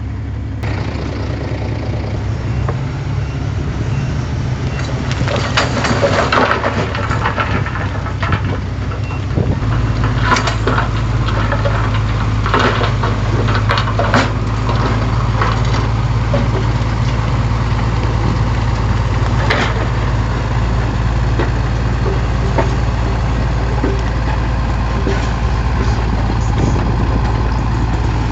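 Heavy diesel earthmoving machinery running steadily, its low engine note stepping up about a third of the way in. Scattered metallic clanks and crunching of soil and debris come through, heaviest between about five and fifteen seconds.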